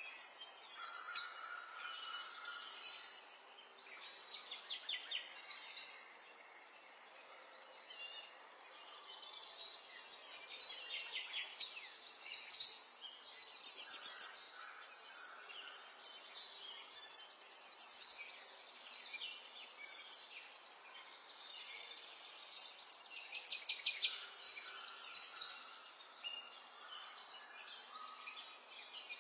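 Several songbirds singing in overlapping phrases: high, fast trills and chirps, each run lasting a second or two, coming again and again.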